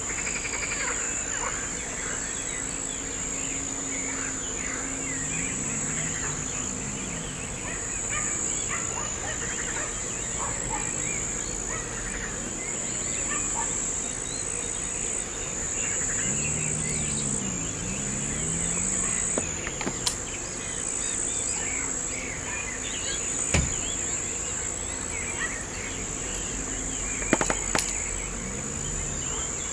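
Outdoor chorus of insects making a steady high shrill, with birds chirping and calling throughout and a few sharp clicks in the second half.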